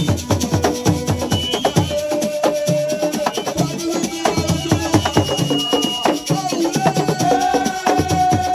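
Assiko percussion music: fast, dense drumming with many sharp, rattling strikes, with held sung or played notes over it. The deep drum strokes drop out about two seconds in and come back near the end.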